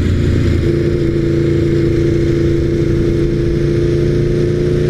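Aprilia RSV4R's V4 engine running through a GPR Thunder Slash slip-on exhaust at steady part-throttle. Its note settles about half a second in and then holds almost level.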